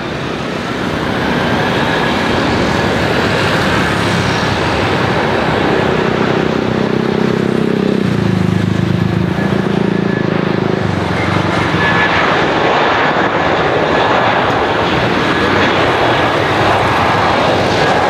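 Airbus A320-232's twin IAE V2500 turbofans running at take-off power as the airliner passes: a loud, steady jet roar. About eight seconds in, the low tones in the sound drop as it goes by.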